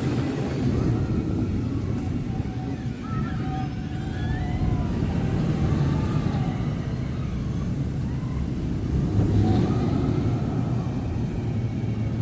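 Roller coaster train running along its track: a steady low rumble that swells and eases, with faint distant voices.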